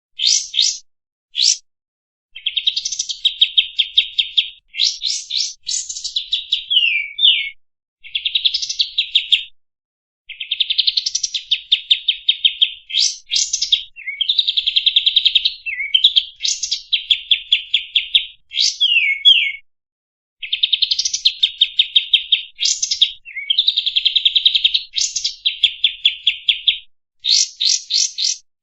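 Kapas tembak songbird singing its standard song: phrases of fast, buzzy trilled notes alternating with quick sharp rising and falling whistles, repeated with short pauses between.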